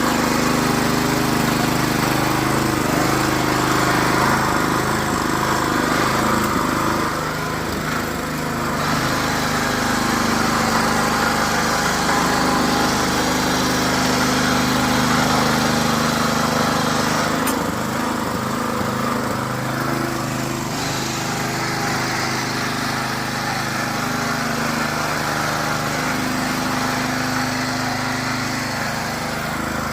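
Hand tractor (power tiller) engine running steadily under load while threshing finger millet, its tone shifting slightly a few times.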